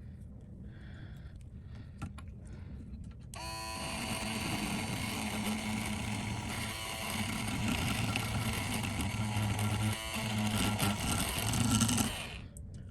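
An electric bench tool used in phone screen refurbishing runs steadily with a hum and a hiss. It starts suddenly about three seconds in, runs for about nine seconds and cuts off near the end.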